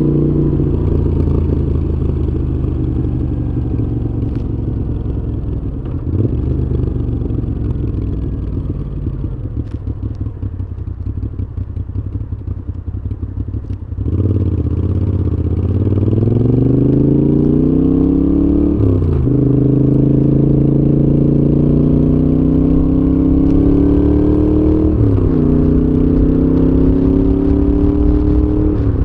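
Moto Guzzi V7's air-cooled transverse V-twin running through a Mistral exhaust under way. It eases off with the throttle closed for several seconds, then about halfway through pulls hard through the gears, the pitch rising and dropping back at each of three upshifts, the last one near the end.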